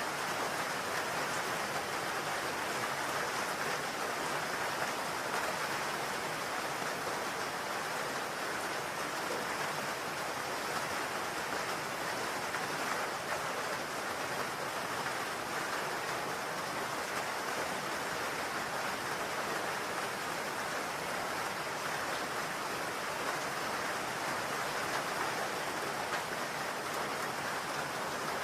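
Steady rain falling on a roof, an even hiss with no distinct drips or changes.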